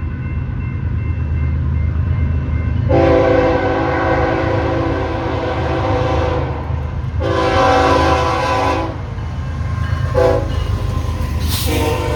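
Train's multi-chime air horn sounding the grade-crossing signal, long, long, short, long, over the steady rumble of the locomotive's engine. Each blast is a chord of several tones, and the last long blast is still going at the end.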